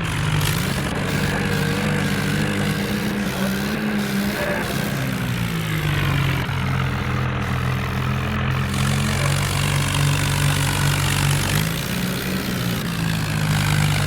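Tractor diesel engines running steadily, the engine note dropping about six seconds in and picking up again near twelve seconds.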